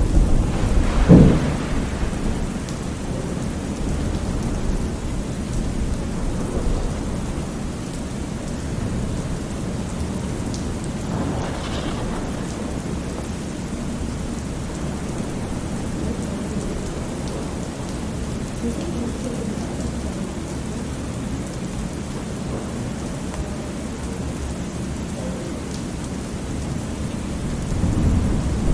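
Thunderstorm ambience: steady heavy rain with low rolls of thunder, the loudest about a second in and again near the end.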